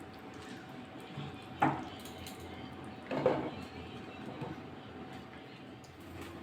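Two clinks of a metal lid being set onto a cooking pot, about a second and a half apart, the second a little longer.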